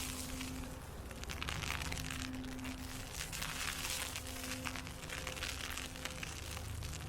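Crunching and crackling of snow and ice pellets, coming in uneven surges about once a second, over a faint steady low hum.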